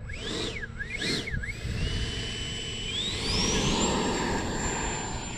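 Electric ducted fan of an E-flite Viper model jet, run on a 6S lipo. Its whine rises and falls twice with quick throttle blips, then climbs in steps to a high, steady whine at full throttle.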